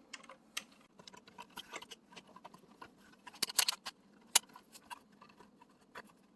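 Scattered small plastic clicks and light handling noise from a ribbon cable being worked into its connector on an oven control board. A quick cluster of clicks comes about three and a half seconds in, and one sharper click just after.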